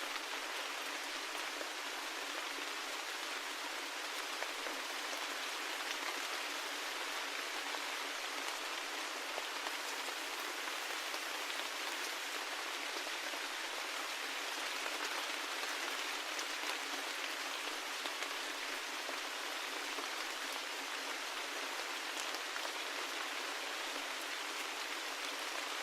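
Steady rain: an even, unbroken hiss of many drops with no low rumble, and now and then a single drop ticking out from it.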